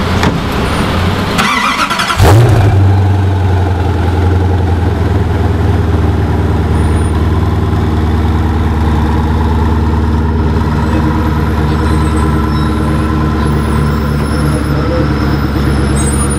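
Koenigsegg Agera R's twin-turbo V8 being started: brief cranking about two seconds in, then the engine catches with a loud flare. It settles into a steady idle.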